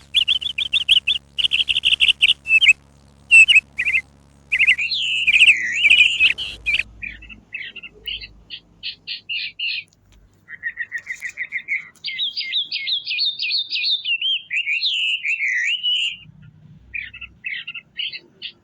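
Small songbirds chirping in rapid trills and warbling, gliding phrases, with a short lull about halfway through.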